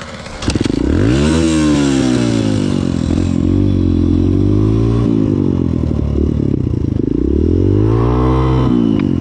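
Dirt bike engine revving: it jumps in about half a second in, climbs in pitch and holds at high revs, then drops back and revs up again near the end before falling off.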